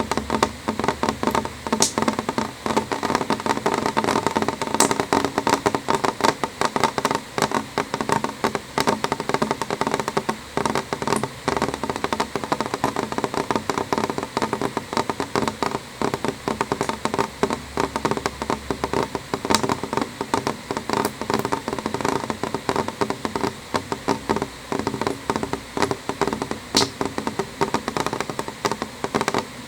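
Rain on a window: many drops tapping on the glass in a dense, steady run, with a few sharper ticks standing out.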